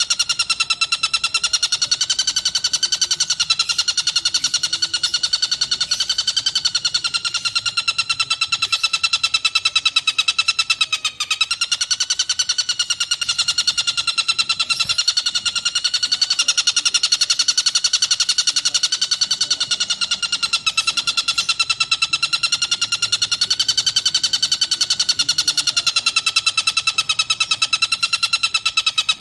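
Tengkek buto kingfisher giving a long, unbroken rapid trill, its pitch slowly wavering up and down, with a brief break about eleven seconds in.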